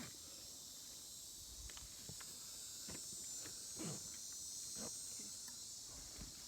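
Steady, high-pitched chorus of insects in the swamp, with footsteps on the trail falling about twice a second.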